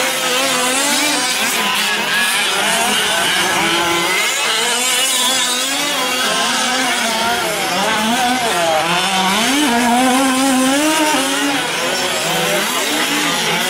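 Several fifth-scale gas RC trucks' small two-stroke engines racing together, their pitches overlapping and constantly rising and falling as throttles open and close around the track.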